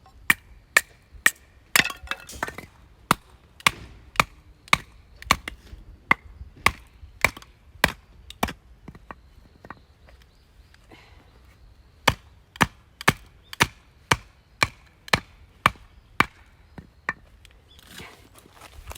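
Firewood being chopped: sharp, regular strikes of a blade into wood, about two a second, with a pause of a few seconds midway.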